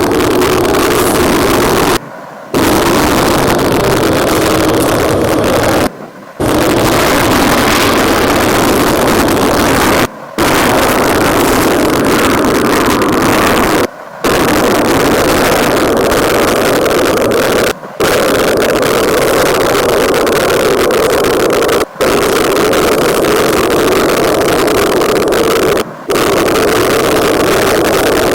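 Emirates Airbus A380-800's four jet engines at takeoff power: a loud, steady roar, broken by brief dropouts about every four seconds.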